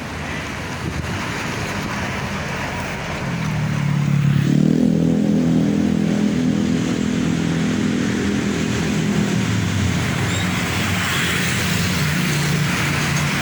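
Diesel engine of a Hino 500 concrete mixer truck running as it comes up close, growing louder about four seconds in and then holding a steady low note, over general road noise.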